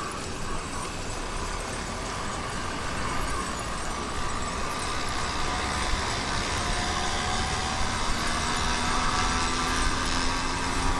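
YD100 kit engine on a motorized bicycle running under way, its pitch climbing slowly through the second half as the engine speeds up.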